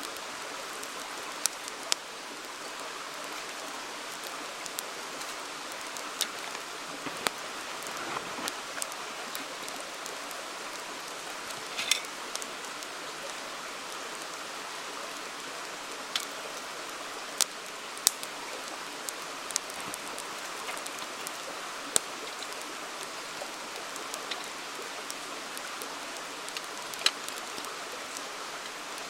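Campfire crackling, with sharp pops every second or few seconds, over the steady rush of a flowing river.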